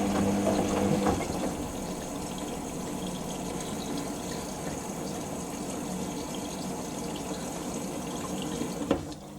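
Hoover SIX front-loading washing machine filling for its first rinse: water rushes steadily through the inlet valve and detergent drawer into the drum. A low hum stops about a second in, and the water flow cuts off suddenly near the end.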